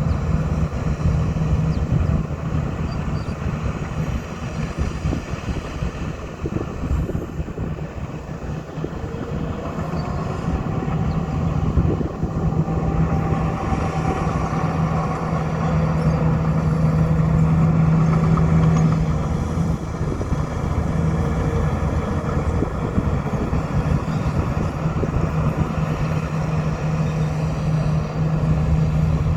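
Heavy diesel engine of earthmoving machinery running steadily under changing load, dipping for a few seconds and then growing louder for several seconds near the middle.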